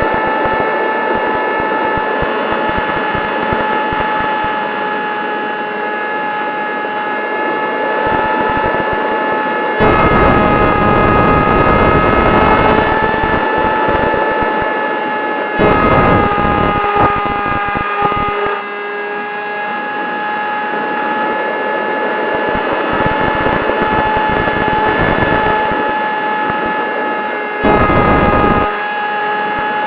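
Electric motor and propeller of a ZOHD Talon GT Rebel RC plane whining steadily in flight, the pitch drifting a little. Wind buffets the microphone in loud rumbling gusts about ten seconds in, again around sixteen seconds, and near the end.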